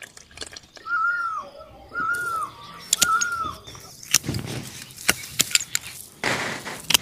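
A bird calling three times, each a short note that rises and falls, about a second apart. Rustling and sharp clicks follow in the second half.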